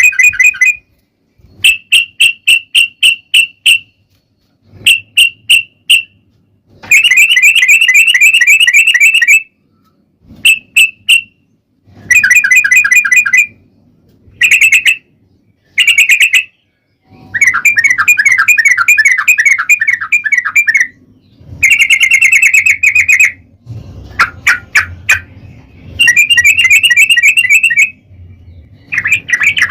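Yellow-vented bulbul (trucukan) singing its long rolling song: a run of rapid bubbling, chattering phrases, each lasting one to three seconds, with short pauses between them.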